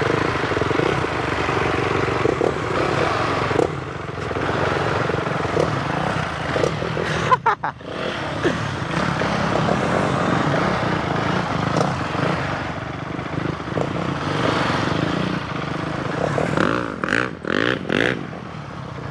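Motorcycle engines running steadily at low revs, held back to a crawl.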